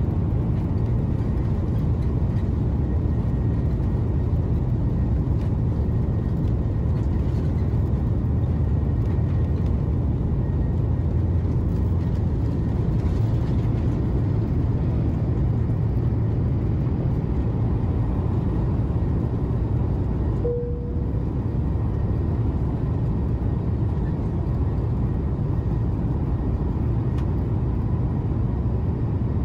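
Steady roar inside the cabin of an Airbus A330-200 in flight, the engine and airflow noise heavy in the low end. About twenty seconds in, a short single beep sounds.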